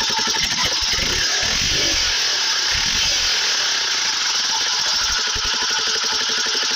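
Motorcycle engine sound effect running steadily with a rapid even pulsing, turned up to a high volume.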